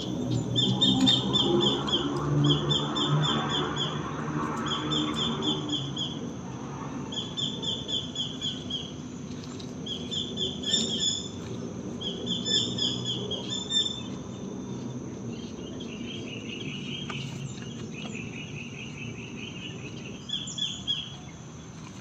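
Outdoor night ambience of animal calls: a short burst of rapid chattering notes repeats about every second and a half over a steady high insect drone. A low, distant hum is there in the first few seconds and fades out.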